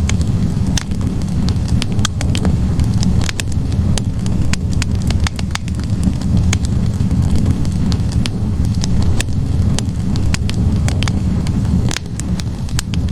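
Wood logs burning in a fireplace: a steady low rumble from the flames with frequent, irregular sharp crackles and pops.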